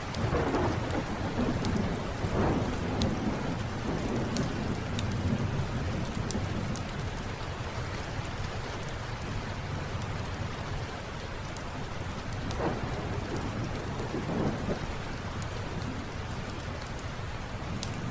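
Steady rain with rolls of thunder, one starting right away and rumbling for several seconds, another about two-thirds of the way through. Small sharp crackles from a wood fire are scattered over the rain.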